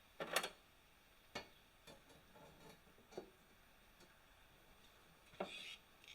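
Four scattered light knocks and clicks over quiet room tone, the first just after the start and the last, followed by a brief rustle, near the end.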